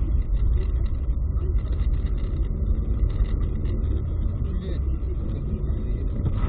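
Steady rumble of a car driving: engine and road noise, heavy in the bass.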